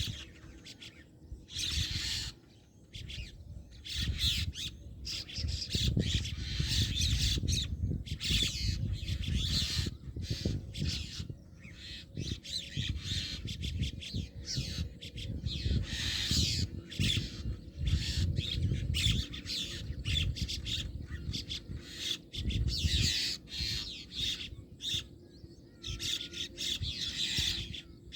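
Many birds calling at once in a dense, overlapping chorus, over a low rumble.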